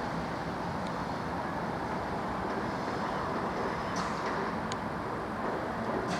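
Steady rumble of vehicle noise, with a few faint short clicks over it in the second half.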